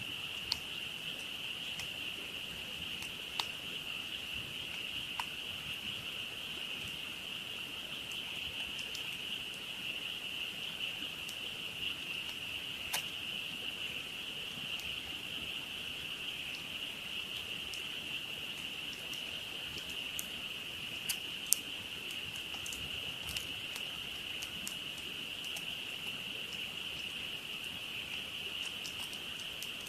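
A dense, steady chorus of frogs calling, with scattered sharp pops and crackles from a wood campfire, the loudest about 21 seconds in.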